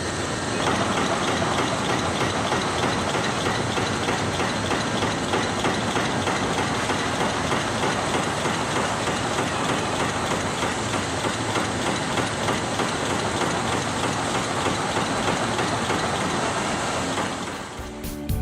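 Amada Pega 345 33-ton CNC turret punch press running, punching in a rapid, steady clatter of hits. It drops away near the end.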